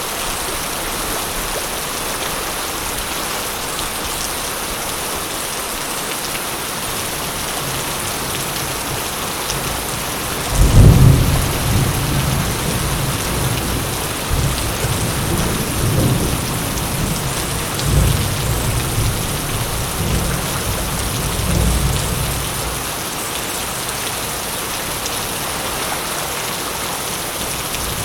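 Steady heavy rain falling. About ten seconds in a clap of thunder breaks sharply, then rolls on in deep rumbling swells for about twelve seconds before dying away under the rain.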